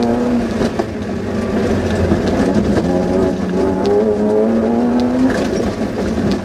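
Suzuki Vitara rally car's engine heard from inside the cabin, pulling with its pitch climbing steadily for a few seconds, then dropping about five seconds in. Scattered knocks run through it.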